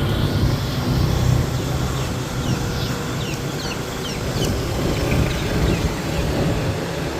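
Motorbike running on the road, a steady low engine rumble with road and wind noise, and a run of short high chirps in the middle.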